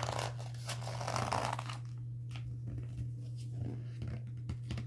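Paper rustling and light handling noises from a picture book's pages, over a steady low hum.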